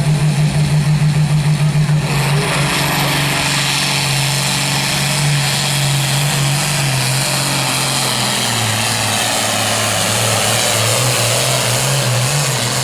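Engine of a truck or tractor pull vehicle under hard load during a pull: it pulses for the first couple of seconds, then goes to full throttle with a rising whine, and its pitch drops about eight or nine seconds in as it lugs down against the sled.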